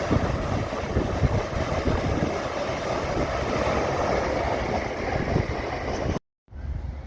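Train running past at a station, a steady loud rumble that cuts out abruptly for a moment about six seconds in, then comes back quieter.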